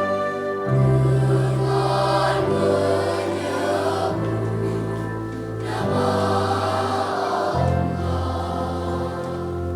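A school children's choir singing in parts, accompanied by a small string orchestra with piano, with held bass notes that change every second or two.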